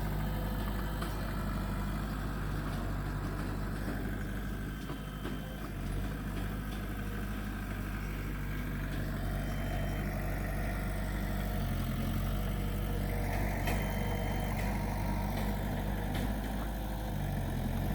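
Komatsu D20P bulldozer's diesel engine running steadily, its engine speed dipping and recovering briefly a few times.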